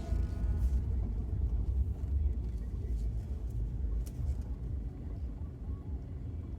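Car driving: a steady low rumble of road and engine noise, with a couple of faint clicks about three and four seconds in.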